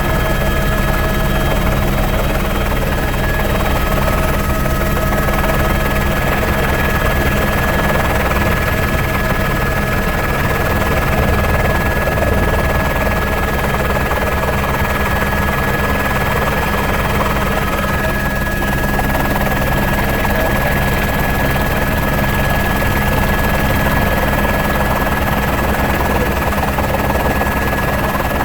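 Helicopter running steadily in flight: a continuous rotor and engine noise with rapid low pulsing and a few steady whining tones, with no gunshots.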